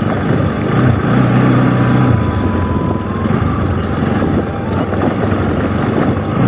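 Motorcycle engine running steadily while riding, a low steady hum under road noise.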